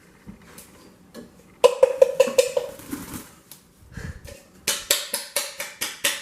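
Kitchen clatter of dishes and utensils being handled. A cluster of knocks comes a little under two seconds in, and a quick run of about eight sharp knocks follows near the end.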